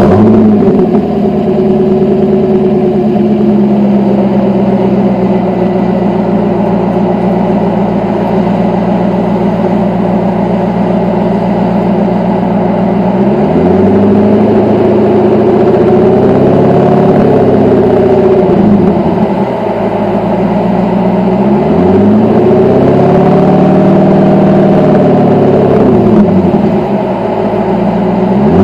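2002 C5 Corvette's V8 running through an OBX exhaust with a custom X-pipe, idling steadily just after starting. About halfway through it is revved up twice, each rev climbing over a couple of seconds, holding, then dropping back to idle.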